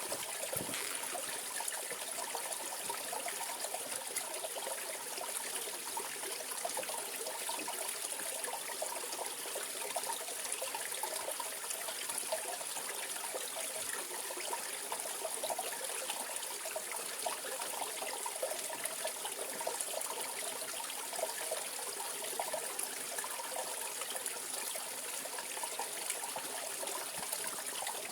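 Mountain valley stream flowing steadily, an even rush of running water with no pauses or changes.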